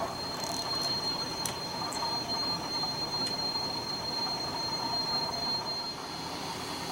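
HO scale Shay model locomotive running, with a steady high-pitched squeal that stops about a second before the end and a few light clicks over a low mechanical running noise.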